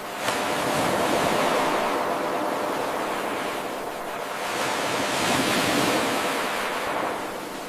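Ocean waves breaking and washing on a shore, in two surges that swell and fade. The sound jumps up abruptly about a third of a second in, where the eight-second loop of the recording starts over.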